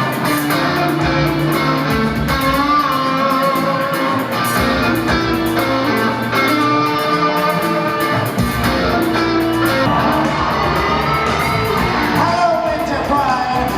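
Live band music with electric guitar playing a song's instrumental introduction, a voice coming in near the end.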